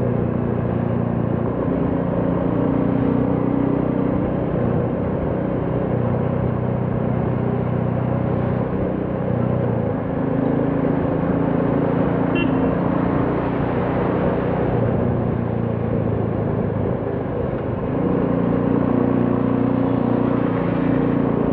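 Royal Enfield Classic 350's single-cylinder engine and exhaust running steadily on the road, with road and wind noise. The engine note shifts in pitch a few times as the speed changes, and grows louder about eighteen seconds in as the rider opens the throttle.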